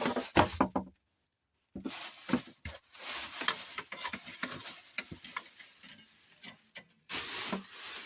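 Plastic shopping bags rustling and crinkling as they are handled and moved, in irregular crackly bursts, with a gap of about a second near the start.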